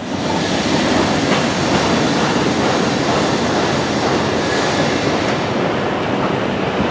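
Disneyland Railroad train rolling along the track: a steady rumble with rail clatter.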